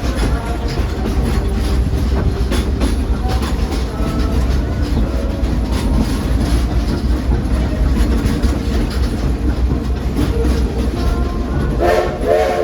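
Steam train's passenger cars rolling along the track, heard from aboard: a steady low rumble of wheels on rail with light clicks. A short pitched sound stands out near the end.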